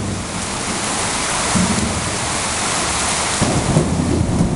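Heavy rain pouring down in a dense, steady hiss. A low rumble comes in about three and a half seconds in.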